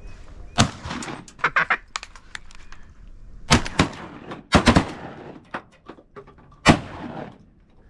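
Shotguns firing from a duck blind at ducks: about five sharp shots spread over several seconds, two of them in quick succession near the middle, from more than one hunter.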